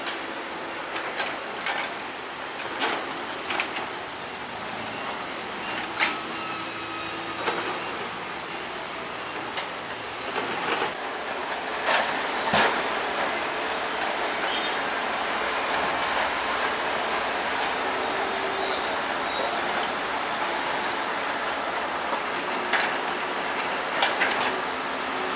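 Bulldozer at work: its diesel engine running under a steady clatter of steel crawler tracks, with squeals and sharp metallic knocks now and then, the loudest about twelve seconds in.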